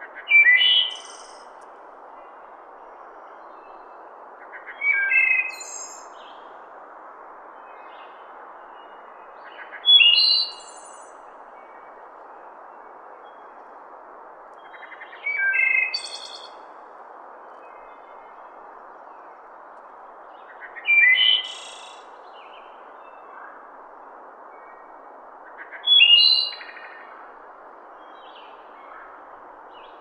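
A bird singing a short chirped phrase about every five seconds, six times, over a steady background hiss.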